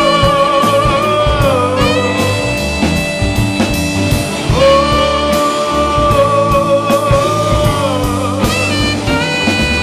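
Rock band playing an instrumental passage: a lead electric guitar holds two long notes that waver and drop at their ends, over bass guitar and a drum kit.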